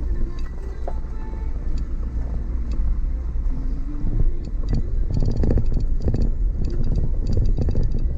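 Car driving on a rough off-road track: a steady low rumble, with a run of rattles and knocks starting about four and a half seconds in.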